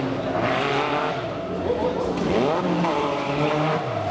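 Competition car engine running hard under acceleration, its pitch dipping and climbing again about halfway through, then dropping near the end.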